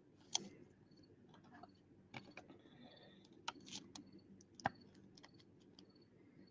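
Trading cards and their packaging being handled on a table: scattered sharp clicks and taps, the loudest about half a second in and just before the five-second mark.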